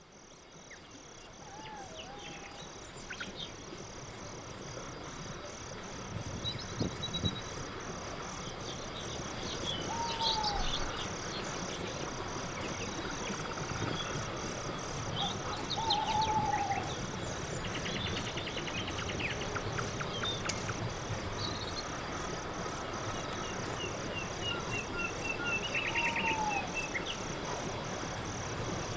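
Crickets chirping in a steady, even pulse, with birds giving short calls and chirps now and then. The sound fades in over the first few seconds.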